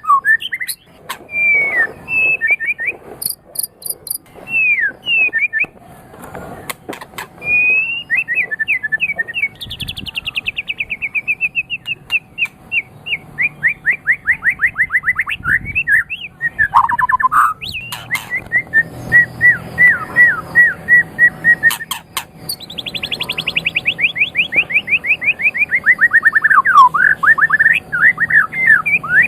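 White-rumped shama (murai batu) singing a long, varied song: clear whistled phrases and quick sweeps, long rapid trills that slide down in pitch, a steady run of repeated notes, and a few sharp clicks.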